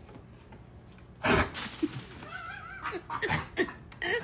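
An animal's calls: a sudden loud noise about a second in, then a wavering call and several short calls.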